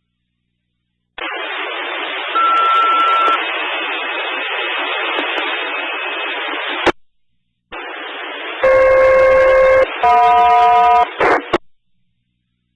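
Fire-dispatch radio over a scanner: an open channel hissing with a short steady beep, then after a brief break two paging tones in a row, each about a second long and at a different pitch, the alert that sets off firefighters' pagers before a dispatch.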